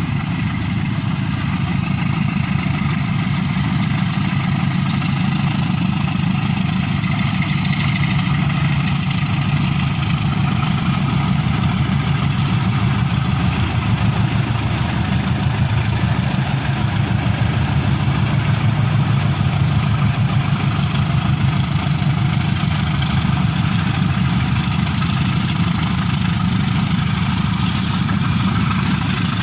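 Diesel engines of a pair of GE U13B locomotives running steadily, hauling a loaded ore freight train.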